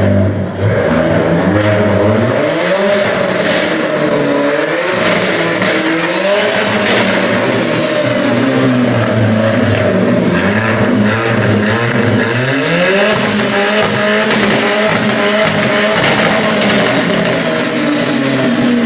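Alfa Romeo 4C's turbocharged four-cylinder engine revving, its pitch climbing and dropping back several times.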